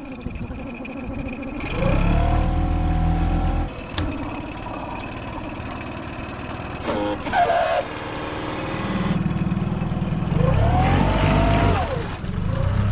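Boat motor revving in two bursts, each rising in pitch and then falling back, with a lower idle between them.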